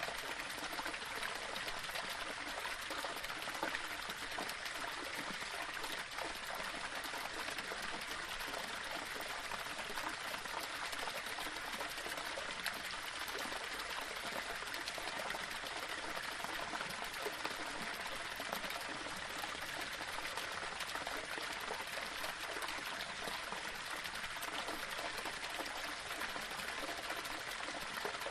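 Small waterfall splashing and trickling over stones in a steady, unbroken rush of water.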